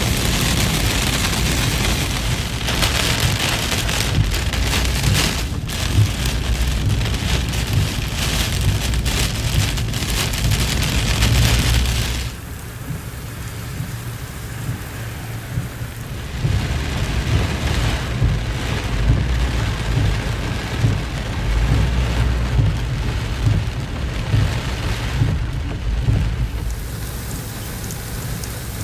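Heavy rain pouring, over a low rumble. The rain eases about twelve seconds in and picks up again a few seconds later.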